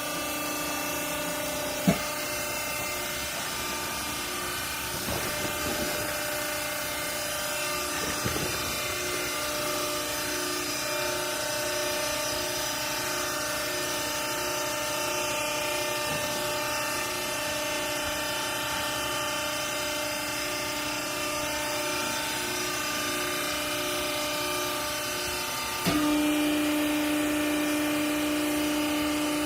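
Hydraulic baler's electric motor and pump running with a steady hum of several tones. There is a sharp knock about two seconds in. Near the end a stronger low tone comes in and it gets louder.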